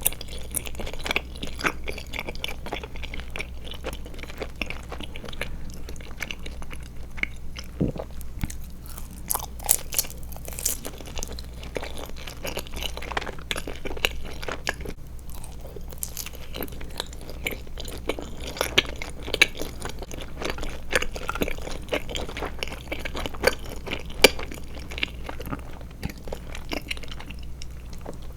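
Close-miked chewing and biting of Trolli Glotzer eyeball gummy candies, with many small sharp crunchy clicks coming irregularly.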